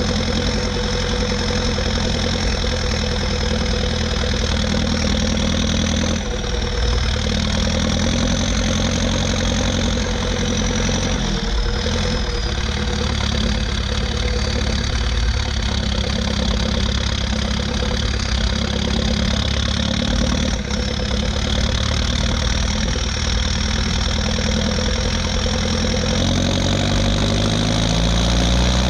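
Ursus 1014 tractor's four-cylinder turbo diesel on a straight pipe, running steadily under load, with a faint high whine over it. Its pitch dips briefly twice and starts rising near the end.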